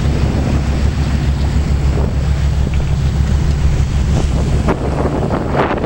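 Wind buffeting the microphone aboard a sailing yacht under way, with water rushing and splashing against the hull; a few louder splashes come near the end.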